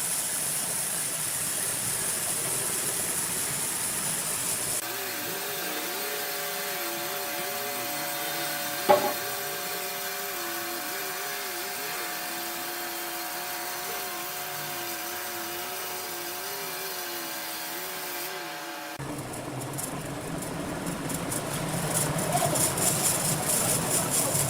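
Sawmill saw cutting timber: machine noise with a high hiss at first, then a wavering whine that rises and falls with the load, with one sharp knock about nine seconds in. It gives way to louder, rougher cutting noise near the end.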